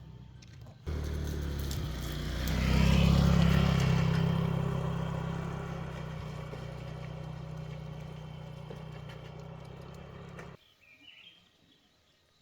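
Small motorbike engine running, swelling to its loudest about three seconds in and then slowly fading. It cuts off abruptly near the end.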